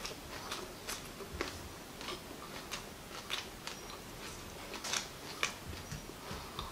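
Crisp crunching and chewing of a mouthful of raw Agati (Sesbania grandiflora) flowers, a string of irregular sharp crackles.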